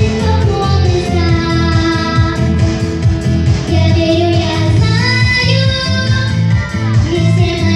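A young girl singing a song with held notes and pitch slides, over instrumental accompaniment with a steady beat and bass.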